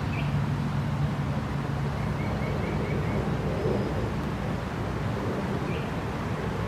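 Creek water running steadily, under a low steady hum that fades after about three seconds. A small bird gives faint short chirps, including a quick run of five notes about two seconds in.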